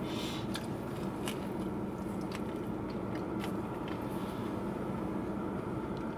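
Close-up chewing of a mouthful of fried chicken sandwich, with scattered sharp crunches from the over-crisp breading. The crunch comes from chicken that is overcooked and dry. A steady low hum runs underneath.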